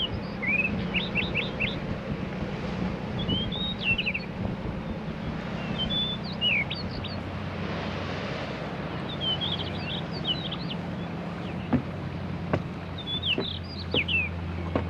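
Sea waves washing against the shore as a steady rushing hiss, with a small songbird singing short, quick chirping phrases about every two to three seconds. A low steady hum runs underneath, and a few sharp clicks come near the end.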